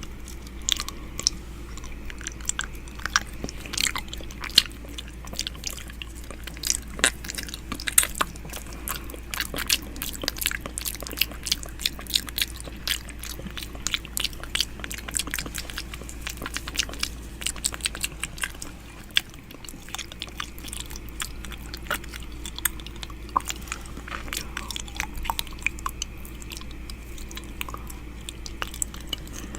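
Close-up wet mouth sounds of ASMR 'ear eating': irregular clicks, smacks and licking sounds made right at a microphone's ear, over a steady low hum.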